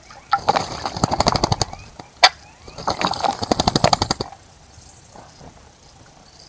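A bird splashing in a bird bath, beating its wings rapidly in the water in two bouts of quick fluttering strokes, with a single sharp click between them.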